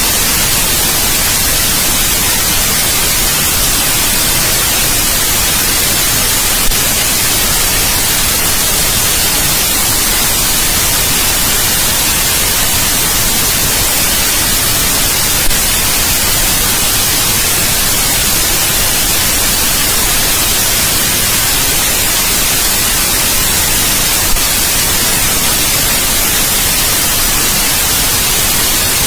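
Steady white noise: an even hiss, brightest in the treble, with a faint click about every nine seconds.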